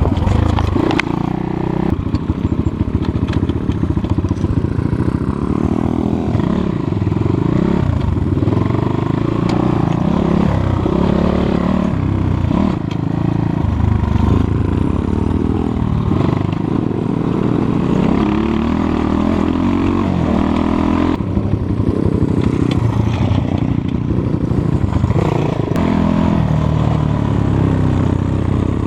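Enduro motorcycle engine running under way, its pitch rising and falling again and again as the throttle is opened and closed.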